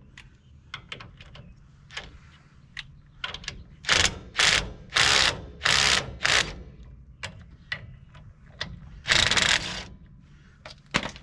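Hand ratchet wrench clicking in short strokes, tightening lug nuts on a wheel hub: scattered single clicks, then a quick run of five rasping bursts about midway and one longer burst near the end.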